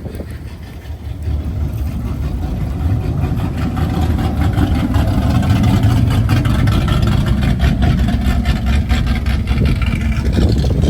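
A car engine rumbling, growing louder over the first few seconds and then holding steady.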